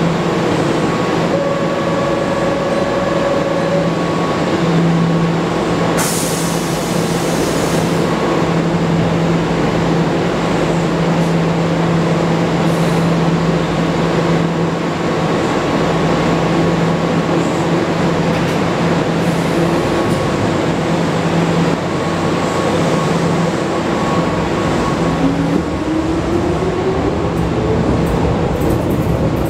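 Keihan 5000 series electric commuter train standing at a platform, its equipment humming steadily, with a burst of air hiss about six seconds in as it readies to leave. The train then pulls away, with a whine rising in pitch near the end.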